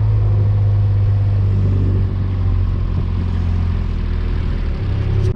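A farm vehicle's engine running steadily at close range, a deep, even hum with a slight change in note about two seconds in.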